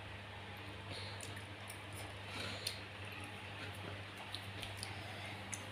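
Faint wet chewing and mouth sounds with a few small clicks, over a steady low hum.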